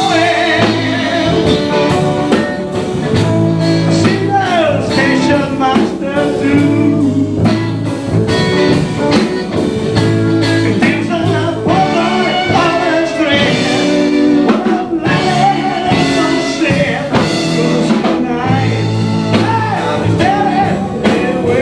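Blues band playing live, with a sung vocal line and bending melodic phrases over a steady band beat.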